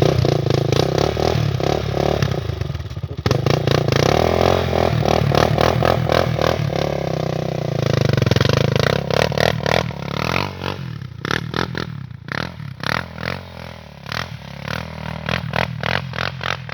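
Honda TRX400EX quad's single-cylinder four-stroke engine, fitted with aftermarket headers and exhaust, revving hard. The revs break off briefly about three seconds in. After about ten seconds it grows quieter and turns into an uneven crackle and rattle.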